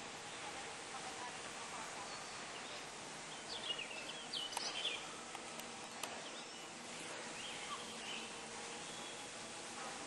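Outdoor ambience: a steady background hiss with a few quick, high bird chirps about halfway through.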